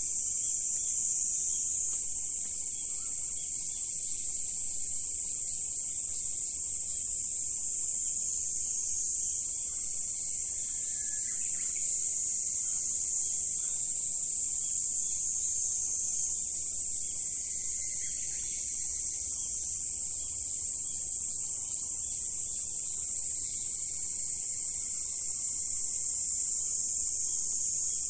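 Steady, dense, high-pitched insect chorus, a continuous shrill trill. Two brief fainter calls sound about 11 seconds in and again around 18 seconds.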